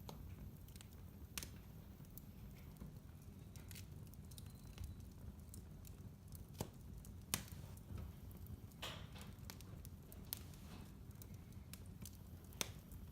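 Wood fire burning in a fireplace: a low steady rumble of flames with irregular sharp crackles and pops, a few louder pops standing out near the middle and end.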